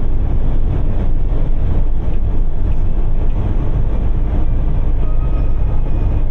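Steady low rumble of a moving vehicle heard from inside it, with a few faint thin tones near the end.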